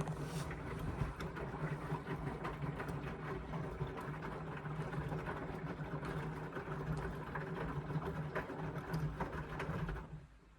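Indesit washing machine tumbling a full load: the drum motor runs with a steady hum while the wet laundry clatters and sloshes in the drum, then the motor stops near the end.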